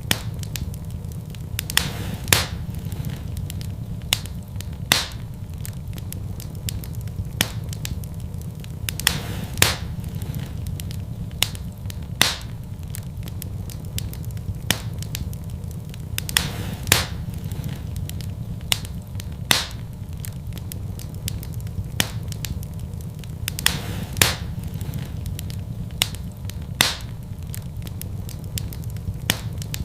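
Wood fire crackling in a fireplace: a steady low rumble from the flames, with sharp pops and snaps every second or few.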